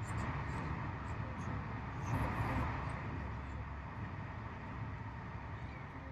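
Steady rumble and hiss of a moving vehicle heard from inside, with a few faint ticks and rattles.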